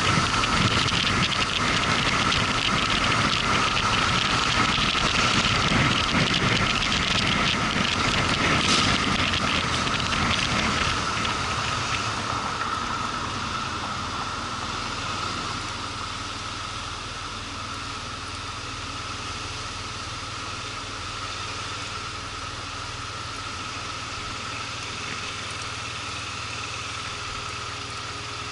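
Motorcycle engine running with road and wind noise, loud for about the first twelve seconds, then the level drops and settles into a quieter, steady engine note, as if slowing to an idle.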